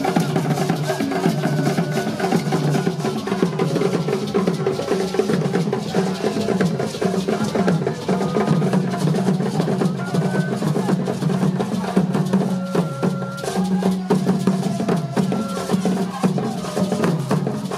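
Drum and percussion music, a dense run of sharp knocks and clicks over a steady low tone.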